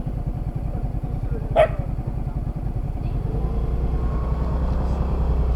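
Yamaha Fazzio motor scooter engine running with a steady low rumble that grows louder a little past halfway. A single short dog bark comes about one and a half seconds in.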